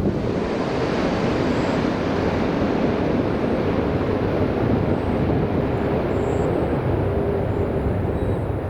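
Jet airliner engines, a steady, loud rushing noise with a faint held hum.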